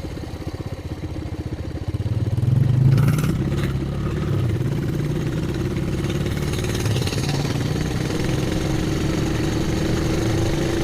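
Coleman BT200X mini bike's single-cylinder engine running through a straight pipe, heard from a microphone inside the rider's helmet. The throttle opens about two seconds in, and the engine then holds a steady pace at part throttle.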